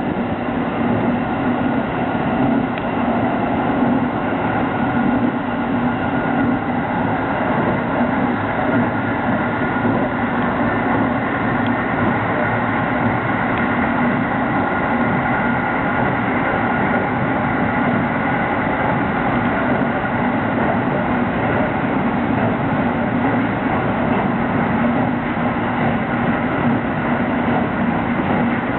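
Tsukuba Express electric commuter train running at a steady pace, heard inside the carriage: an even rumble with a faint steady hum over it.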